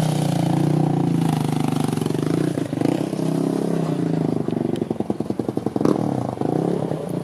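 A vehicle engine running at low revs close by, steady at first. Past the middle it turns into a rapid, even pulsing for a little over a second, and a sharp click follows.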